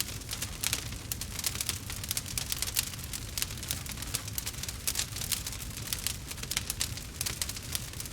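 Campfire crackling: a dense, irregular run of sharp pops and snaps over a low, steady rumble of the burning fire.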